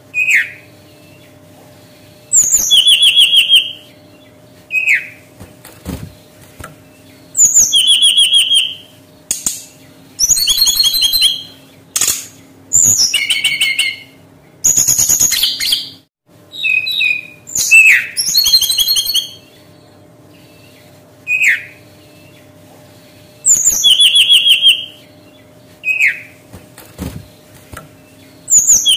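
Brown-chested jungle flycatcher singing: repeated phrases, each a short downward-sliding whistle followed by a fast trill, coming every few seconds over a faint steady hum.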